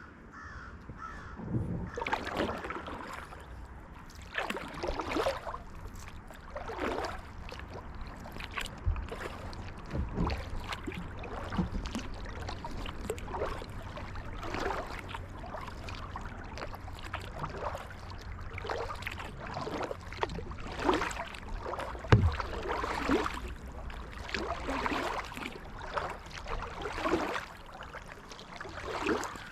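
Kayak paddle strokes, the blades dipping and splashing in the water about once every second or two in a steady rhythm, over a low rumble of water against the hull.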